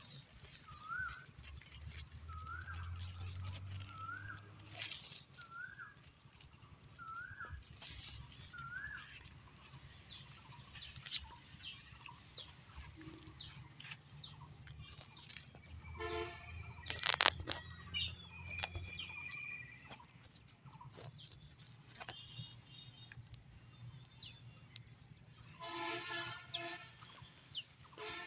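Rural outdoor ambience: a bird repeats a short rising-then-falling call about once a second through the first nine seconds, over scattered clicks and rustles. Two short buzzy pitched sounds come about halfway through and near the end.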